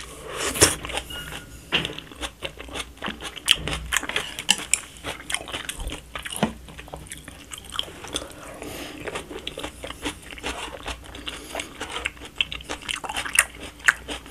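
Chewing and mouth sounds of a person eating spoonfuls of jajangmyeon's black bean sauce topping with its diced vegetables: many short, irregular clicks throughout.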